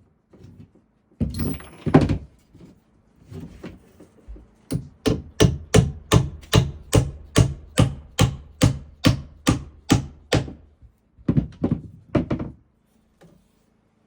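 Hammer blows on wood: a few strikes about a second in, then a steady run of about sixteen even blows at two to three a second, and a few more near the end, typical of nailing during framing.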